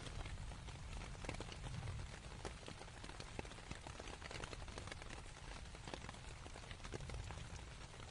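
Rain falling on a canvas tent, many separate drops heard as close taps over a steady hiss, with a low rumble underneath.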